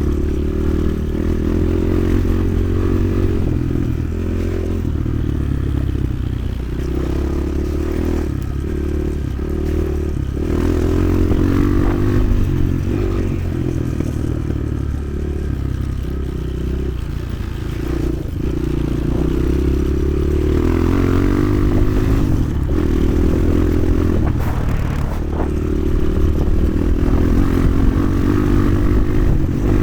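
Motoland XR 300 Lite enduro motorcycle engine running under changing throttle while riding off-road, its pitch stepping up and down, with occasional knocks and rattles.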